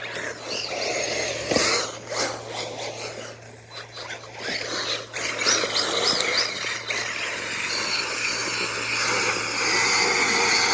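RC buggy driving on a dirt trail: a high motor whine rising and falling with the throttle over the rasp of tyres on dirt, with a few knocks about two and five seconds in.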